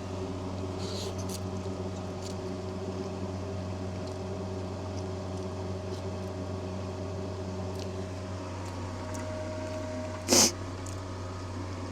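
Steady low mechanical hum with several steady tones, like a fan or motor running, and one brief sharp noise about ten seconds in.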